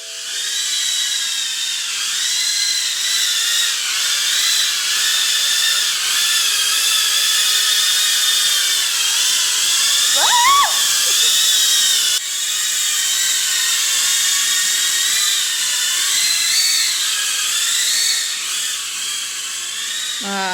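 Small FPV quadcopter drone flying, its propellers giving a loud, high-pitched whine that rises and falls in pitch as the throttle changes.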